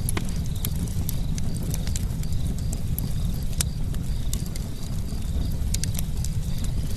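Campfire burning steadily, with a low rumble of flames and frequent sharp, irregular crackles and pops of burning wood.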